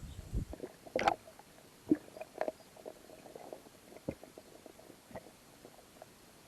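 Underwater sound picked up by a camera's microphone in a waterproof housing: scattered soft clicks and knocks over a low background. A low rumble dies away in the first half second.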